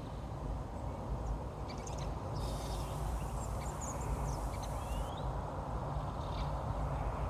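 Small birds chirping faintly and intermittently in woodland, with one short rising call about three seconds in, over a steady low rumble of wind.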